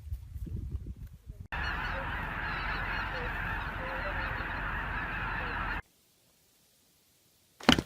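A dense, steady chorus of many animal calls at once, like a large flock, cutting in abruptly about a second and a half in and stopping suddenly after about four seconds.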